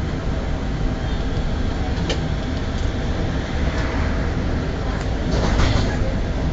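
Tram running along its track, heard from inside the car: a steady low rumble, a sharp click about two seconds in, and a short louder burst of noise about five and a half seconds in.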